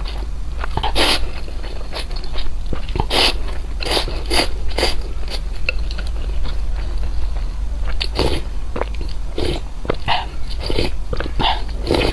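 Close-miked crunchy biting and chewing of food, with irregular crunches several times a second at times and short gaps between, over a steady low hum.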